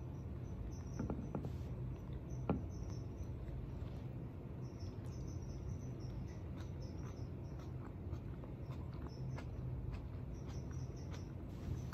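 Quiet room with a steady low hum under a person's soft chewing of a cracker, with a few faint clicks about a second in and again around two and a half seconds.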